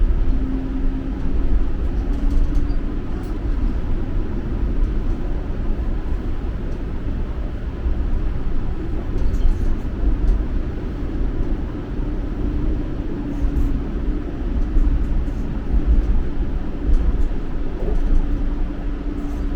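TTC streetcar running along the track, heard from on board: a steady low rumble with a faint motor hum that wavers in and out.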